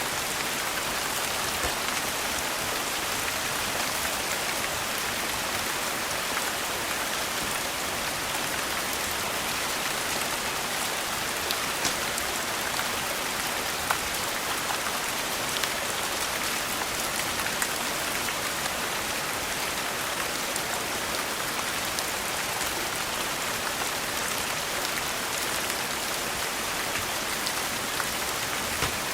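Steady, dense rain falling on a surface, with scattered sharp clicks and pops standing out now and then.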